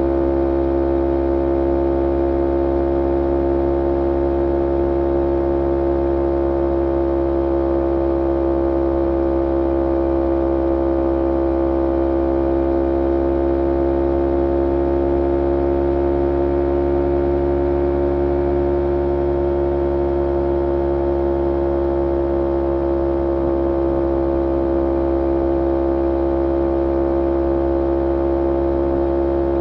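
2011 Kawasaki Ninja 250R's parallel-twin engine running steadily through a full Graves Diamond racing exhaust, its pitch rising slightly past the middle and easing back near the end.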